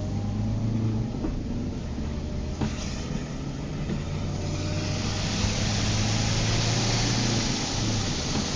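Car driving in the rain: a steady low engine drone with a hiss of rain and wet road noise that grows clearly louder about halfway through.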